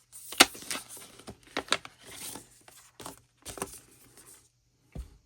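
A CD and paper-and-plastic album packaging being handled: crinkling and rustling with several sharp clicks and taps, the loudest about half a second in.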